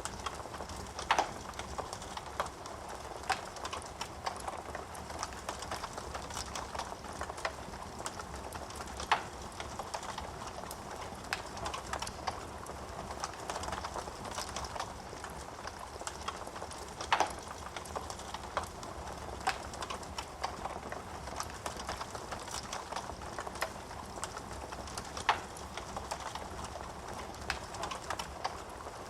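Wood fire burning in a fireplace, crackling steadily with many small clicks, and a few louder sharp pops from the burning wood, about every eight seconds.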